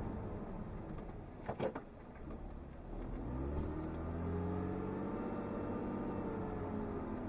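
Porsche engine heard from inside the cabin: after a couple of brief clicks about a second and a half in, the engine note rises from about three seconds in as the car accelerates, then holds steady.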